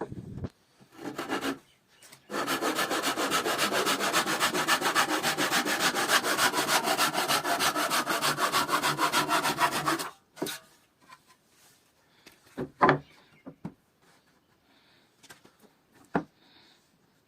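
Rapid, even back-and-forth strokes of an abrasive rubbed by hand over wood, running for about eight seconds from about two seconds in, then stopping. A couple of light knocks follow.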